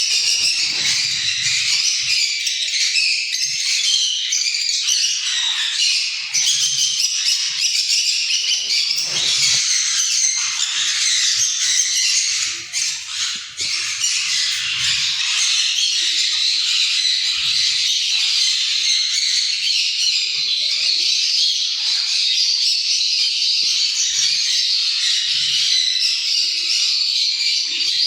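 A flock of small parrots, lovebirds and sun conures, chattering and squawking continuously in many overlapping high calls.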